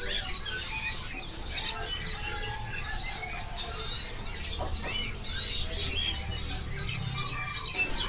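A chorus of small cage birds chirping and twittering, many quick high chirps overlapping, over a steady low rumble.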